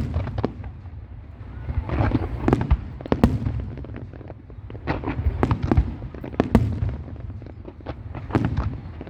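Fireworks display: an irregular string of sharp bangs and cracks over a continuous low rumble, with the bangs bunching into quicker flurries every few seconds.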